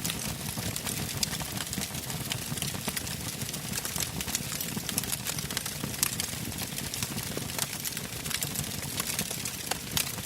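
Wood campfire burning, with a steady low rumble of flames and frequent sharp crackles and pops from the burning logs.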